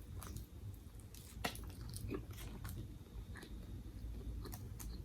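Close-miked chewing of crunchy food, with several small crisp crunches and mouth clicks scattered irregularly through it.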